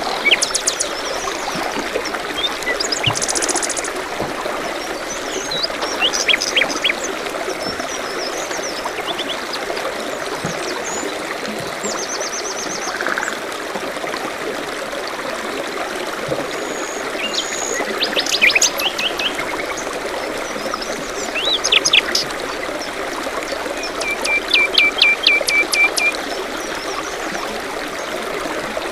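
Steady trickling of a forest stream with songbirds calling over it: scattered short chirps and trills, and a quick run of repeated notes near the end.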